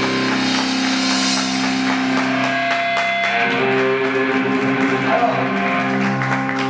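Rock band music: guitar chords held and ringing, moving to a new chord about three seconds in, over a steady fast beat.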